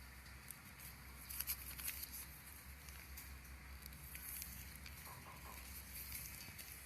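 Faint scattered crackling and rustling of plastic film as the vacuum bag draws down, over a steady low hum.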